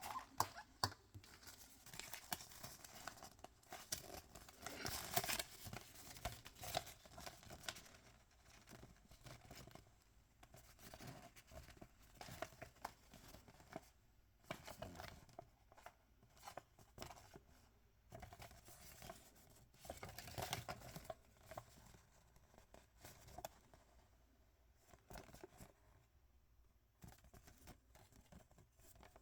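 Faint crinkling and tearing of toy packaging as blind-box wrappers are opened by hand, with scattered small clicks and rustles.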